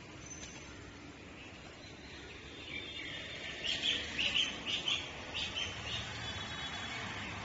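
A bird calling: a quick run of about a dozen short, high chirps, starting about halfway in and lasting a couple of seconds, over steady background noise.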